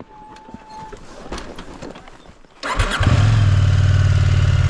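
A few faint clicks, then about three seconds in an adventure motorcycle's engine is started: a short crank, it catches, and it settles into a loud, steady idle.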